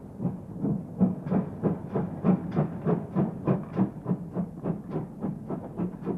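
Steam train running, with a quick, regular beat of about three a second.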